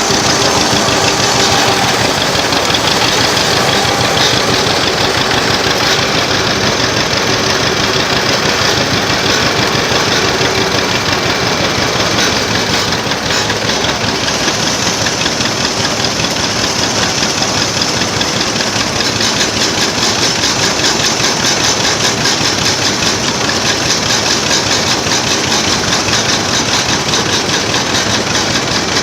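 Antique tractor engine running steadily under the driver, loud and close, with a rapid even firing beat throughout.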